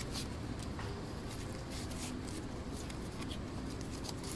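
Light rustling and scattered small clicks of hands handling material, over a steady background hiss.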